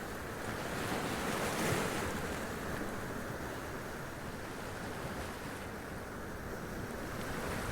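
Sea waves washing and splashing up onto rocks, a steady wash of surf that swells briefly about two seconds in.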